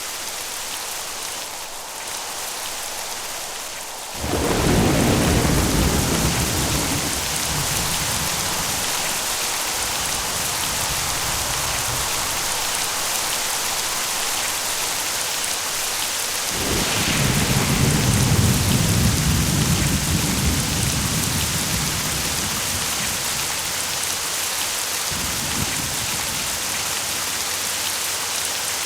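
Steady rain with thunder rolling in: a deep rumble starts suddenly about four seconds in, a second, longer roll begins about sixteen seconds in, and a short one comes near the end.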